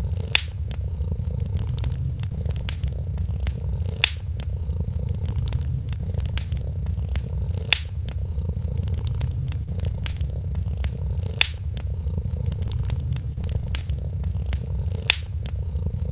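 Cat purring steadily, a low pulsing rumble, over a wood fire crackling with faint clicks. A louder pop comes about every four seconds.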